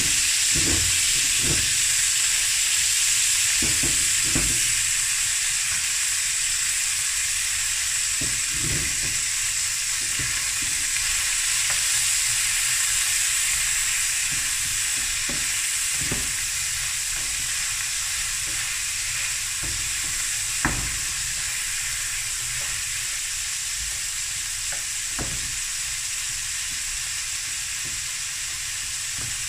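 Boerewors sausage pieces with onion and jalapeños sizzling steadily in a pan on high heat, stirred with a wooden spatula that knocks against the pan now and then.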